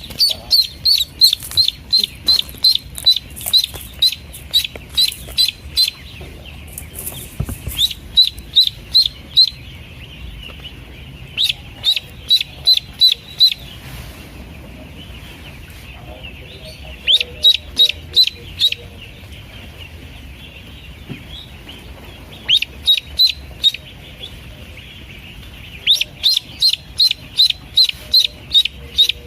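Newly hatched Pekin ducklings peeping. A loud, high peep comes in quick runs of about two or three a second, broken by pauses of a few seconds, over a steady chorus of fainter peeps.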